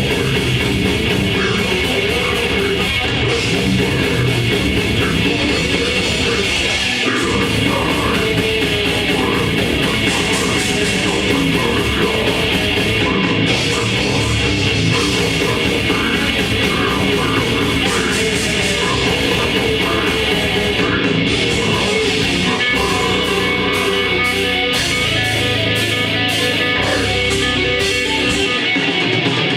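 Live grindcore band playing: heavily distorted electric guitars and drums, loud and dense without a break.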